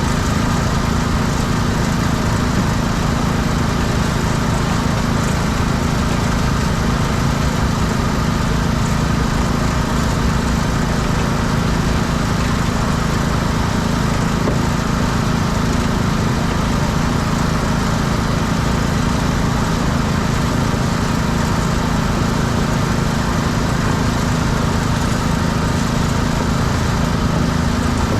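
Small gasoline engine of a pressure washer running steadily at constant speed.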